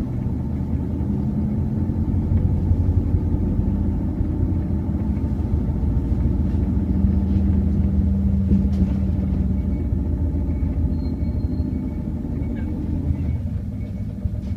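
Seibu Bus engine running with a steady low rumble. It grows a little louder about two seconds in and eases off again near the end.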